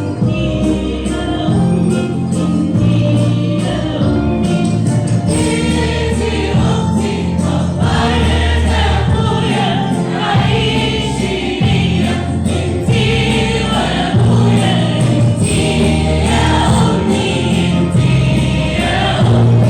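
Music: an Arabic Christian hymn with a steady bass line, and singing that comes in about five seconds in.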